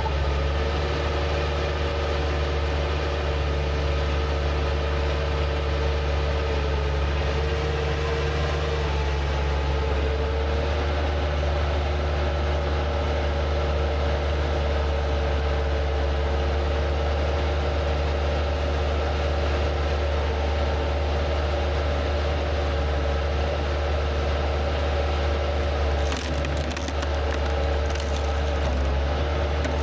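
Skid steer engine running steadily under load, driving a front-mounted log splitter, with a few sharp cracks of wood splitting about 26 seconds in.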